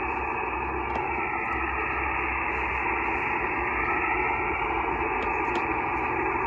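Shortwave band noise: the steady hiss of a single-sideband receiver tuned to the 15 m band between transmissions, cut off above about 3 kHz by the receiver's filter.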